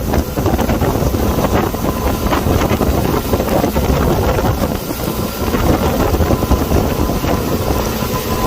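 Wind buffeting the microphone over a motorboat engine running steadily at speed.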